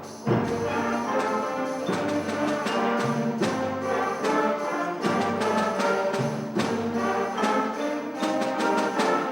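Seventh-grade concert band playing a full passage, with brass and winds holding chords over frequent percussion hits. After a brief drop at the very start, the whole band comes back in loudly.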